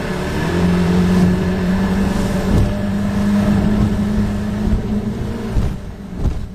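Boat engine running steadily, its pitch stepping up slightly about half a second in, then falling away near the end. A few low thuds come at the end.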